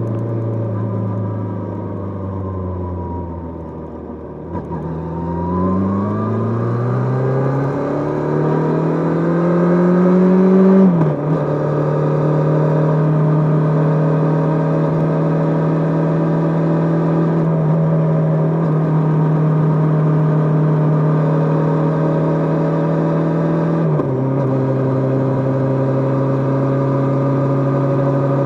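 Kawasaki GPz550 motorcycle's air-cooled inline-four engine under way: the revs fall for the first few seconds, then climb steadily. About eleven seconds in there is an upshift, and the engine holds a steady pitch before a second shift at about twenty-four seconds, after which it runs steady again.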